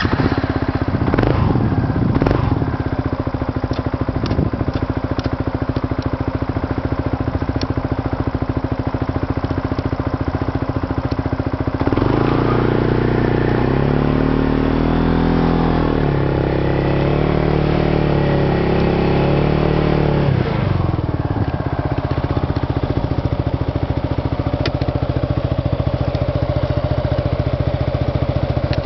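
Yamaha Majesty 250 Fi scooter's single-cylinder four-stroke engine idling steadily just after starting. About twelve seconds in it is revved for several seconds, the pitch rising and falling a few times, then it settles back to idle.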